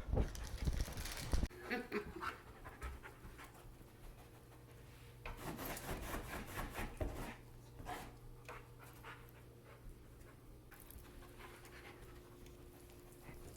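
German Shepherd dog panting, in a few short spells of quick breaths over a faint steady hum.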